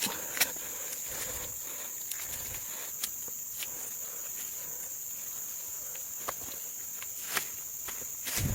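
Steady high-pitched insect buzz, with scattered sharp clicks and snaps, the loudest about half a second in and shortly before the end.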